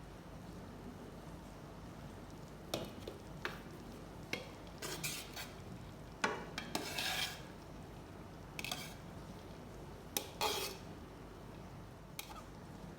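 A spoon stirring and scraping in a cooking pot: scattered knocks and short scrapes, starting about three seconds in and stopping near the end.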